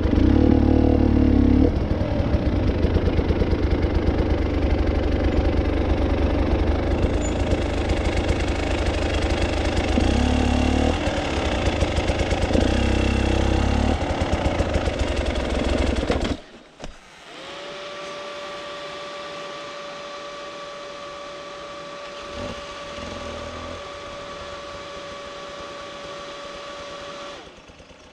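Off-road motorcycle engine running with uneven revs, cut off abruptly about sixteen seconds in. A steady electric whine, the radiator cooling fan, then runs for about ten seconds and stops near the end.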